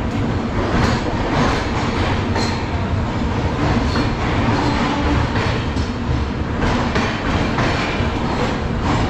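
Passenger train coaches rolling along the rails into a station, heard from the open coach door: a steady rumble of wheels on track with irregular clicks over the rail joints.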